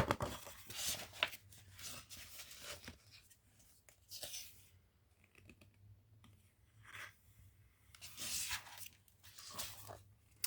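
Paper book pages being handled and turned: several separate rustles a second or two apart.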